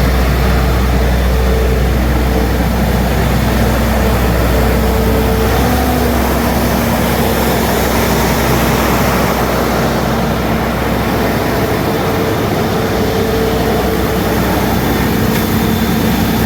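Heavy diesel dump truck's engine running steadily under way, with road and cab noise; the engine note changes about six seconds in.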